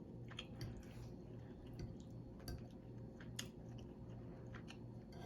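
Faint chewing of a mouthful of home-cooked food, with scattered soft mouth clicks and smacks, over a low steady hum.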